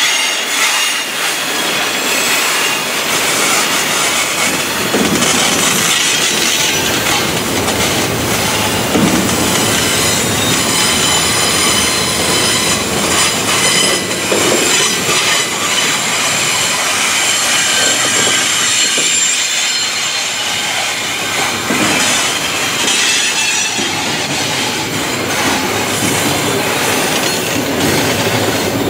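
Freight train cars rolling slowly past: steel wheels squealing in thin, steady high tones over the continuous rumble and clatter of wheels on rail, with occasional knocks. The cars are double-stack container cars and then tank cars.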